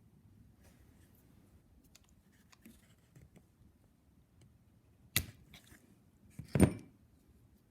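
Small parts and tools being handled with faint clicks, then two sharp clacks about five and six and a half seconds in, the second the louder.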